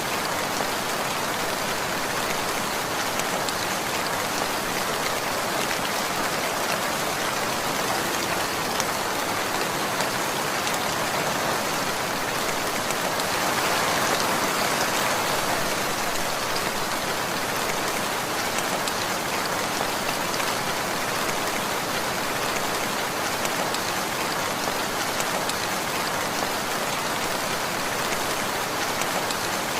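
Steady, dense rainfall, raindrops pattering on a surface, swelling slightly about halfway through.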